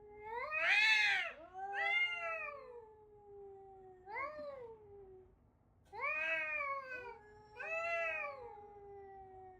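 A cat meowing in five long, drawn-out calls, each rising and then falling in pitch.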